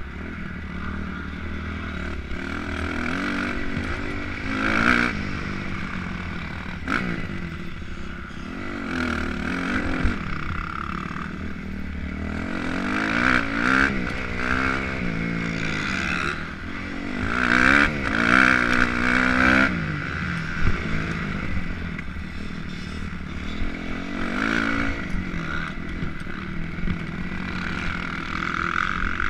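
Motocross dirt bike engine revving up and down as the rider accelerates and backs off around the track. Scattered knocks and rattles come through over the bumps.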